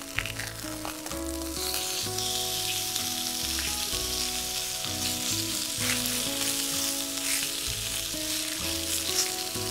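Rain falling on the tent fabric, a dense steady hiss that gets heavier about a second and a half in, under soft background music with held notes.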